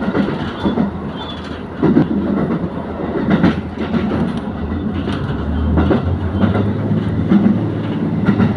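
Diesel train running along the track: a low steady engine hum, with wheels clicking over rail joints at irregular intervals.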